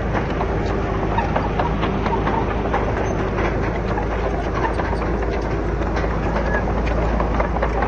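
Heavy diesel earthmoving machine running steadily under load, with a dense, irregular clatter of metal knocks and rock over the engine rumble.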